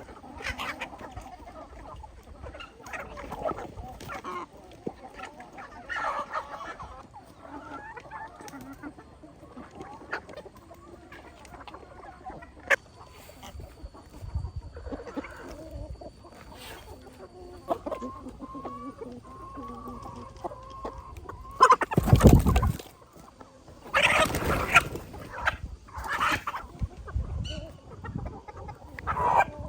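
Chickens clucking, many short irregular calls, with a few much louder calls about two-thirds of the way through.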